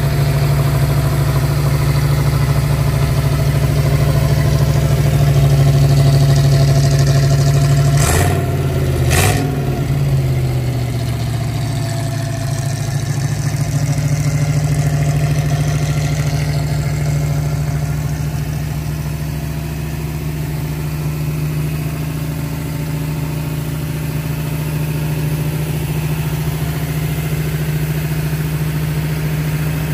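1958 Chevrolet Corvette's fuel-injected 283 V8 idling just after a cold start. About eight and nine seconds in come two sharp clicks, after which the engine settles to a slightly quieter, steady idle.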